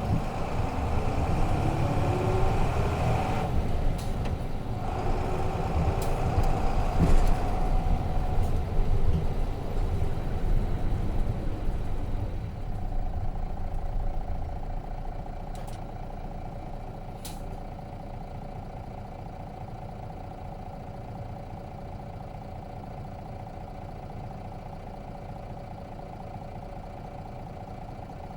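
Nissan Diesel RM bus's FE6 six-cylinder diesel engine running under way, its pitch rising and falling, then quietening about halfway through to a steady idle as the bus comes to rest. A few sharp clicks are scattered through.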